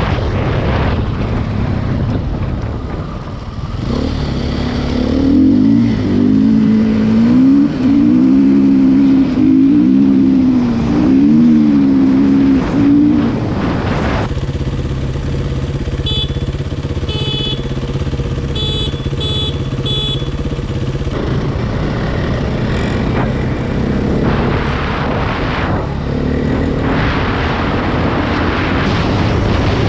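KTM EXC enduro motorcycle engine revving, its pitch rising and falling over and over, then settling into a steadier note with a few short high-pitched beeps, and a rushing noise like wind on the microphone toward the end.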